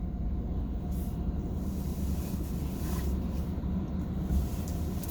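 Steady low rumble of a car's engine running, heard from inside the cabin.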